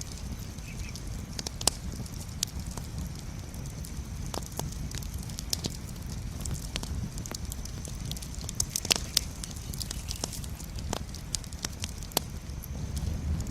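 Campfire burning with a steady low rumble of flames and irregular sharp wood crackles and pops, a cluster of louder pops about nine seconds in.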